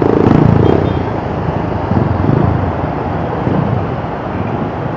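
Bajaj Rouser 180 single-cylinder engine running while being ridden in city traffic, with road and traffic noise around it.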